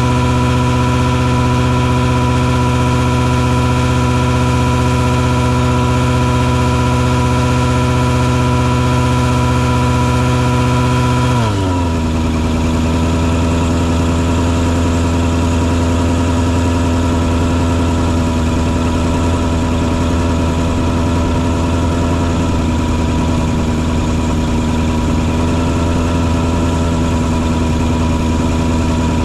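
Engine on a mosquito-fogging truck running steadily, then dropping to a lower speed about a third of the way through and holding there.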